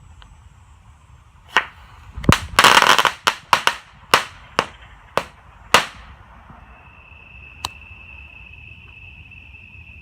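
Cutting Edge Fireworks Crackling Balls firework going off: a run of sharp bangs, with a dense burst of crackling about two and a half seconds in and the last shot near six seconds. After the shots a steady high-pitched tone remains.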